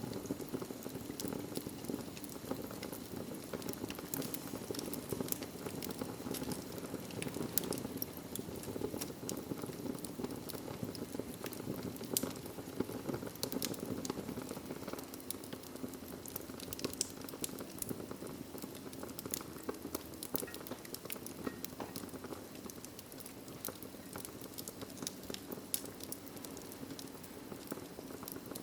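Wood fire burning in a fireplace: a steady rush of flames with many small scattered crackles and pops.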